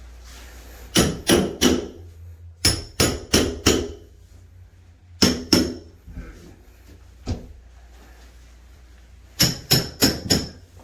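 Hammer blows in quick runs of three to five strikes at about three a second, with a couple of single strikes between runs.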